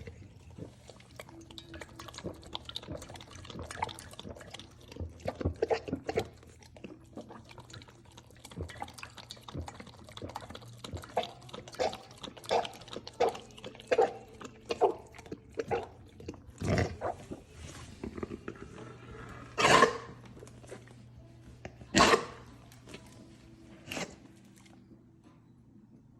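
Golden retriever lapping water from a bowl with quick, repeated laps, then coughing hard about four times in the second half as water goes down his airway. The coughs come from cricopharyngeal achalasia, a swallowing disorder that leaves him unable to swallow all the water he has lapped up.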